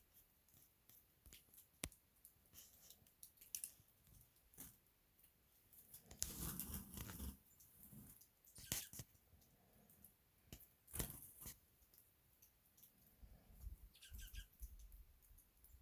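Faint, scattered sharp clicks and rustles, louder for about a second around the middle, with a few short high chip notes from small birds close by near the end.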